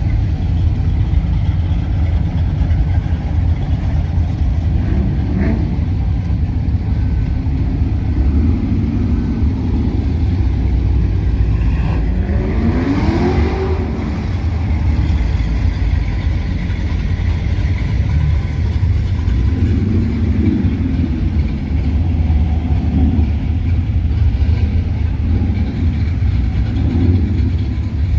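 Classic cars' engines running with a steady deep rumble as cars roll in. About halfway through, one engine revs up with a rising pitch for a second or two.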